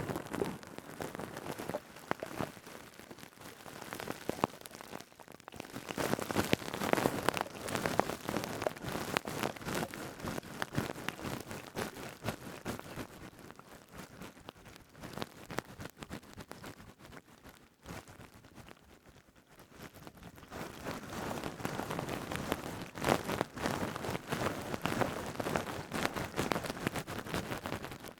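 Stainless steel scrubber being rubbed and squeezed, making a dense fine crackling that swells and fades in waves. It is louder in the first third, softer in the middle and louder again near the end.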